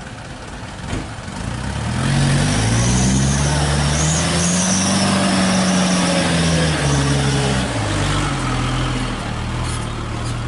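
Diesel truck engine revving under load, climbing in pitch for a few seconds and then easing back down, with a faint wavering high whine above it, as the truck pulls across a badly broken road.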